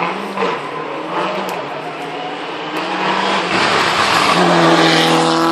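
Rally car engine running hard and growing louder as the car approaches, its note stepping up higher and stronger in the last couple of seconds.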